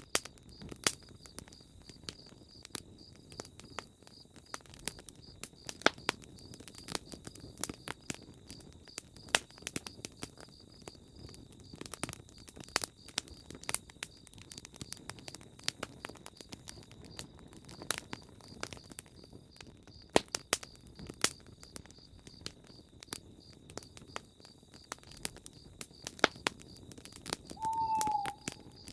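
Campfire crackling, with sharp irregular pops and snaps from the burning wood. A steady, high-pitched pulsing trill runs underneath, and near the end a bird gives a single short hoot that falls slightly in pitch.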